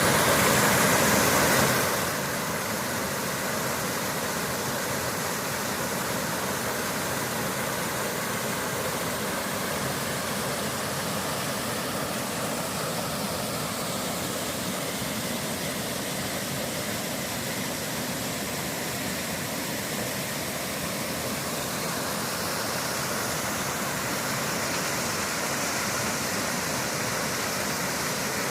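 Waterfall pouring in a steady rush, louder for the first two seconds or so, then even.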